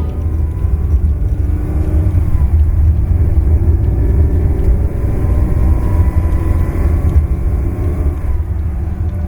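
Ferrari 365 GT4 2+2's V12 engine running while the car is driven, a deep, steady sound with no music over it.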